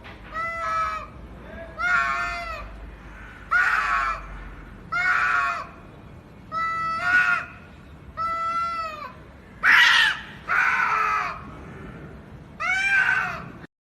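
A cat meowing over and over, about nine loud, drawn-out meows roughly a second and a half apart.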